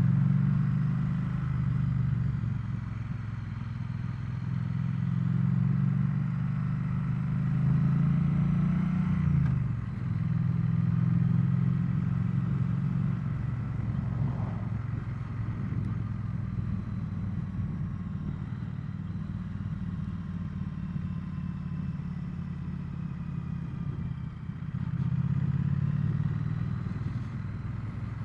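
Triumph Bonneville T100 parallel-twin engine running while riding on the road. It rises and falls with the throttle and dips briefly about nine and a half seconds in before pulling again.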